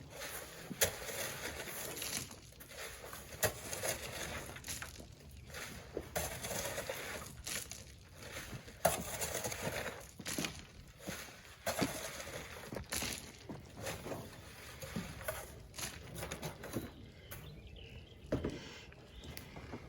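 Sand being loaded by hand: irregular scrapes and knocks of shovel work, one every second or two, over a steady outdoor hiss.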